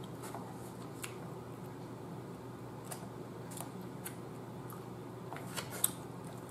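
Close-miked chewing of a fried chicken wing: scattered soft clicks and mouth smacks over a steady low hum, with one sharper click near the end.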